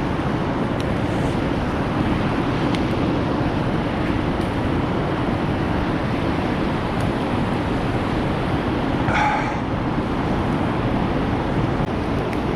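Meat brushed with barbecue sauce sizzling steadily on a grill over a wood fire, with a few faint crackles. About nine seconds in comes a brief high-pitched squeak.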